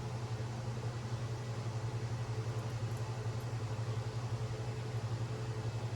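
A steady low mechanical hum with a fast, even pulsing, from a running machine such as a fan.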